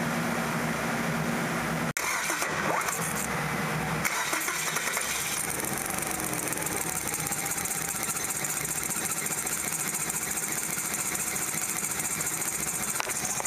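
The 1.8-litre twin-cam four-cylinder engine of a 1998 Kia Sephia running steadily with a misfire. The misfire comes from the number 1 spark plug wire leaking spark (carbon tracking). The sound drops out briefly about two seconds in.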